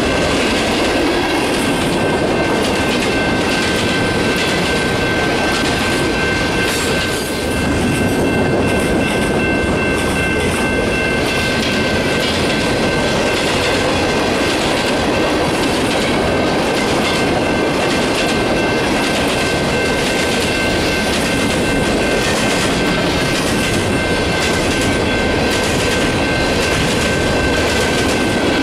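Freight cars of a long mixed train rolling past at track side. The wheels rumble steadily on the rail with rhythmic clicks over the rail joints, and a steady high-pitched ringing runs throughout.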